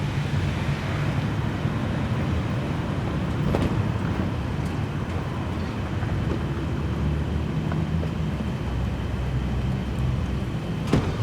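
Steady low rumble of road traffic and cars around a parking lot, with a faint click about a third of the way in and a sharper click near the end.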